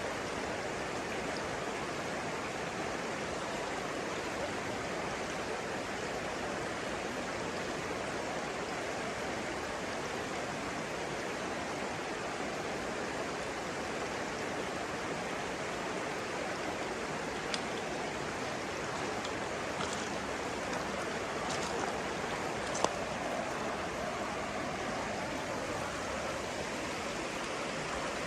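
Stream water flowing with a steady rush, with a few brief sharp clicks in the second half, the strongest about three-quarters of the way through.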